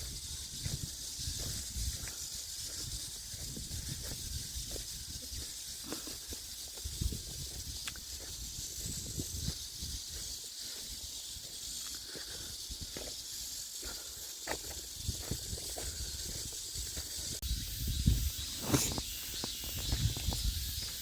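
Steady high-pitched drone of summer insects, with irregular low thumps from movement close to the microphone, busiest near the end.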